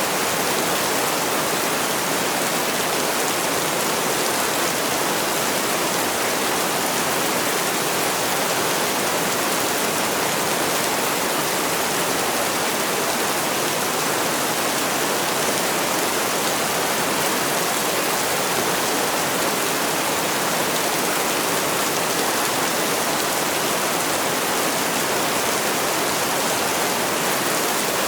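Steady heavy rain: an even, unbroken hiss of falling water with no single drops or thunder standing out.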